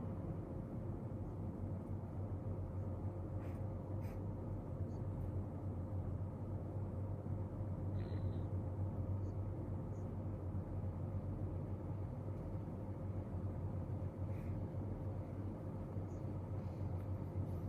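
Steady low room hum with a thin constant tone, and a few faint clicks and taps scattered through it.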